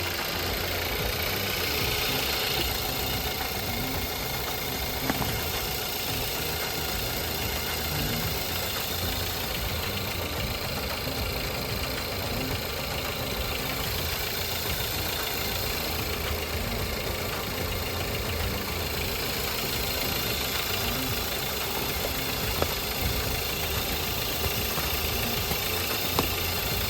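Audi A3 engine running steadily, with a constant even noise.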